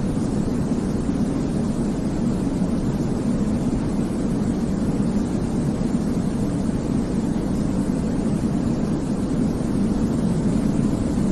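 Baby sleep white noise: an even, unbroken hiss, deep in tone with most of its weight in the low end, holding steady throughout.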